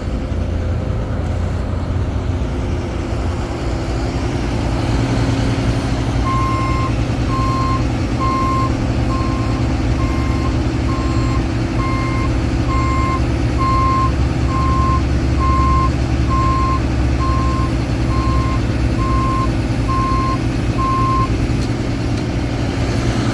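Heavy truck's 6.7-litre Cummins turbo diesel idling steadily, with a backup-style warning alarm beeping about once a second, starting about six seconds in and stopping shortly before the end.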